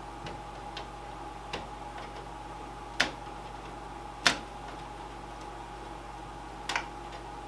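A few scattered sharp clicks, the loudest about three and four seconds in, from fingers picking stickers off a PC case, over a steady faint hum.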